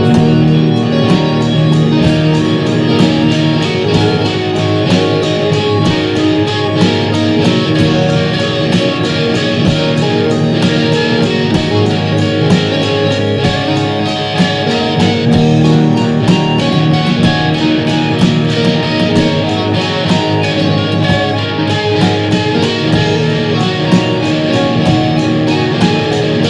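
Live experimental jam of electric guitar, synth and drums playing steadily, sustained guitar and synth tones under a fast, continuous run of drum and cymbal strokes.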